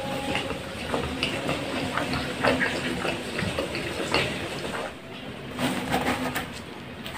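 A person chewing a mouthful of food: irregular wet mouth clicks and smacks. Near the end comes a short cluster of louder clicks as the kebab wrap is handled on the table.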